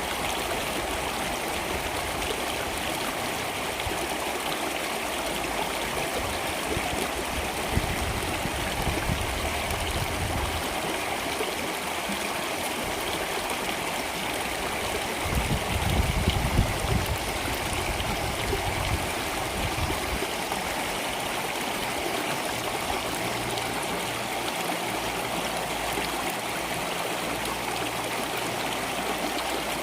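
Stream water flowing steadily, with a brief deeper gurgling swell about halfway through.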